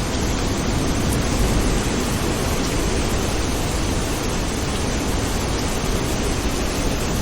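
Steady rain falling: a dense, even hiss with a low rumble beneath it.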